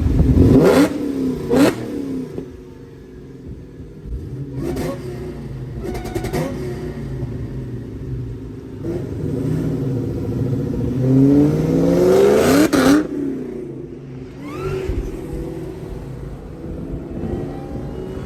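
Car engines revving and accelerating, their pitch sweeping up and down, loudest about a second in and again around twelve seconds in.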